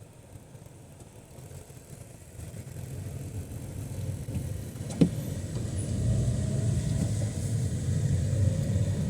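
A car's low engine and road rumble, swelling from about three seconds in, with one sharp click about halfway through.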